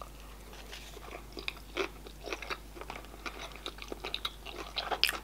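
A person chewing a mouthful of salmon sushi roll close to the microphone: many small wet mouth clicks and smacks at an irregular pace.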